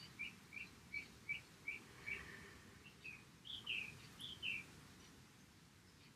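A small bird chirping faintly in a steady run of short chirps, about two or three a second, for the first two seconds. It gives a few longer, falling chirps around three to four seconds in, then goes quiet.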